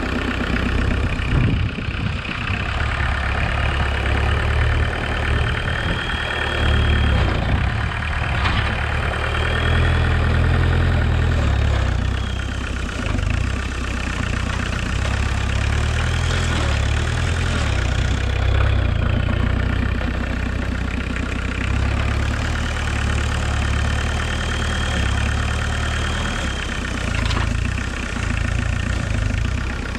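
Homemade tractor's VW 1.6 turbodiesel engine running, its load swelling and easing. A whine rises and falls several times over it, and two sharp clicks are heard, one about a third of the way in and one near the end.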